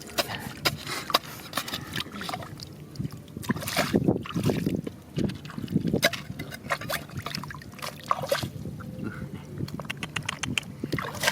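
Water sloshing and splashing amid many sharp clicks and knocks, as stones and gravel are worked in a river, over a steady low hum.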